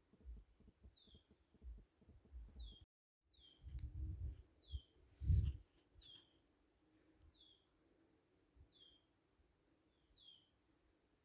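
A bird chirping in a steady, repeating two-note pattern, a short level chirp then a falling chirp, about one pair a second. Under it come low rumbling thumps, the loudest a little past halfway, and the whole sound cuts out for a moment about three seconds in.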